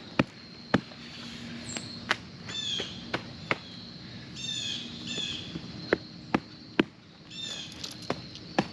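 Sharp single knocks of a hammer driving landscape-fabric staples into the ground, coming irregularly about every half second to a second and a half. A bird calls in short repeated chirps between the strikes.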